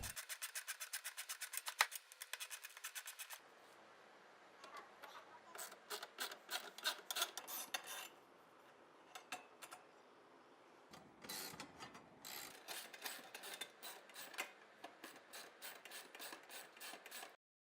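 Faint ratchet wrench clicking in quick, even runs, in three spells with pauses between, as the bolts holding a washing machine's transport bracket are undone.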